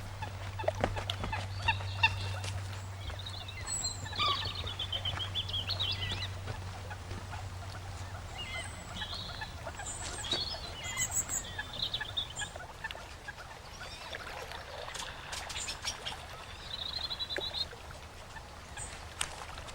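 Birds chirping and calling in short warbling phrases, with a brief trill near the end, over scattered clicks. A low hum runs under the first half and fades out.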